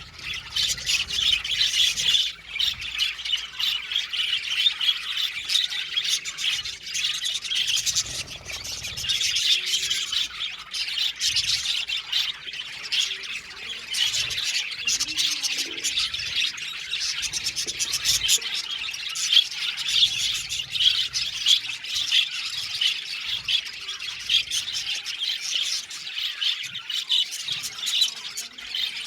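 A flock of budgerigars chattering and chirping together, a dense unbroken mix of many short high calls and warbles with occasional squawks.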